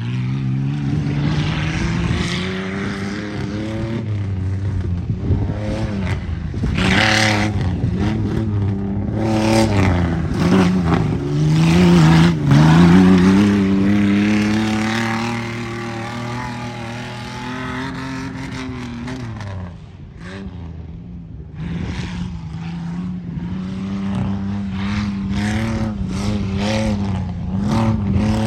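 Tuff truck engine revving hard through an off-road obstacle run, its pitch rising and falling with the throttle. The revs dip sharply about twelve seconds in, and the engine eases off around twenty seconds before picking up again.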